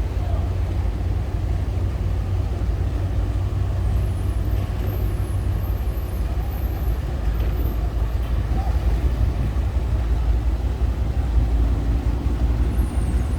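Tugboat engine running steadily, heard from on board as an even low rumble.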